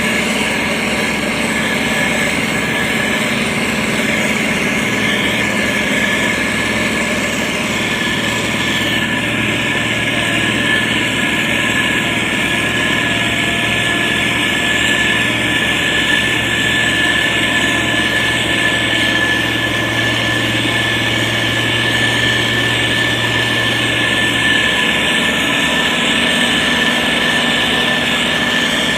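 SANY STG190C-8S motor grader's diesel engine running steadily while it works, with a steady high whine over the engine note.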